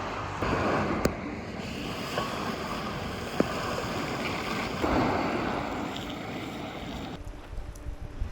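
Lake waves washing in on the shore, two larger surges about half a second in and about five seconds in, with wind buffeting the microphone.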